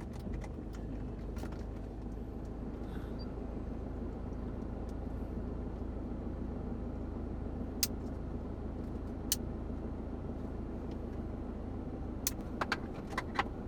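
A vehicle's engine running with a steady low hum, with two sharp clicks about midway and a few light knocks near the end.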